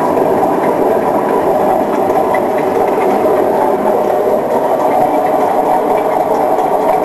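Privileg Ergonomic 1600 S washing machine spinning its drum with a loud, steady rumble, the sound of a badly failed drum bearing.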